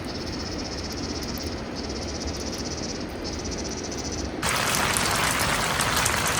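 Steady outdoor rain with a high, pulsing buzz over it that breaks off twice. About four seconds in, it switches abruptly to a much louder, harsher rush of falling water.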